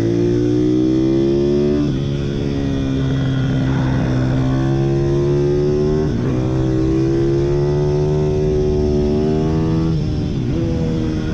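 Pitbike engine running hard at high revs, its pitch climbing slowly and dipping briefly three times, about every four seconds.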